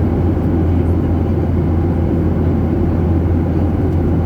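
Steady jet engine and airflow noise inside an airliner's passenger cabin in flight: a low, even drone.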